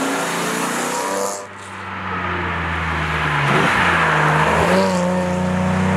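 1956 Mercedes-Benz 300 SL Gullwing's straight-six engine running as the car drives along. The sound drops briefly about a second and a half in, then builds again, and its pitch dips and rises again around the middle.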